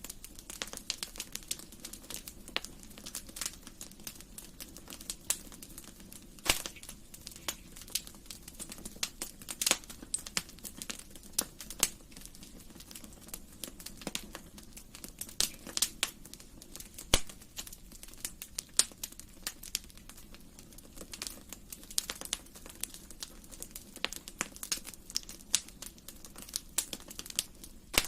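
Wood fire in a fireplace crackling, with frequent irregular sharp pops and snaps over a soft low hiss of the flames.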